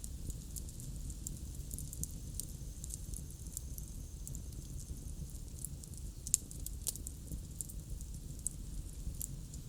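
Bonfire crackling: a steady run of small sharp snaps from burning wood over a low rumble, with two louder pops just past the middle.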